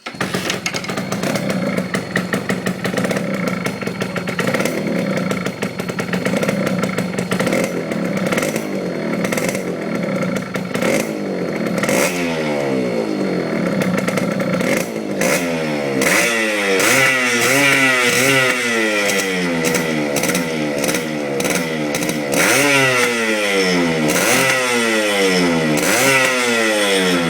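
TVS Suzuki Shogun's single-cylinder two-stroke engine running at idle. From about twelve seconds in it is revved again and again, the pitch climbing and falling with each blip of the throttle.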